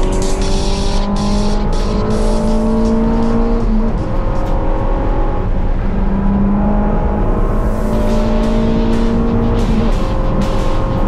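Honda Civic track car's engine heard from on board under hard acceleration: the pitch climbs slowly, then drops at an upshift, about three times. Music plays over it.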